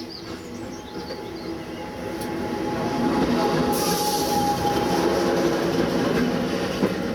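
A Class 50 diesel locomotive and its train approaching and running past, growing louder over the first few seconds, with the engine's steady note and wheels clattering on the rail joints. A wheel squeal rises midway, along with a hiss.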